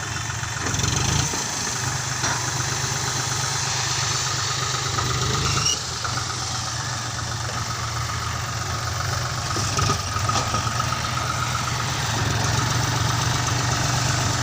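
Tractor diesel engine running steadily at low speed.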